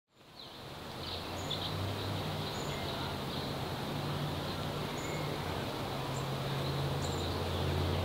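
Birds chirping: short, high chirps every second or two over a steady low hum and a soft hiss, fading in at the very start.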